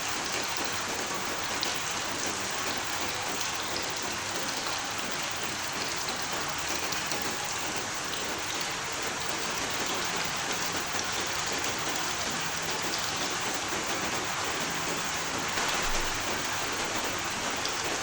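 Steady heavy rain falling and pattering on surfaces, a dense even hiss of many drops, briefly a little louder near the end.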